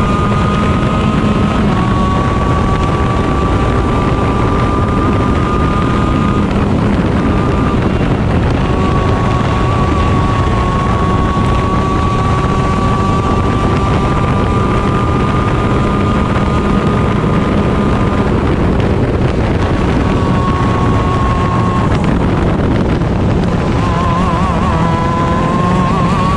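Honda 125cc two-stroke shifter kart engine at high revs, heard onboard. Its high pitch climbs slowly for several seconds at a time and breaks off briefly every few seconds, then wavers and climbs again near the end, with wind noise on the microphone.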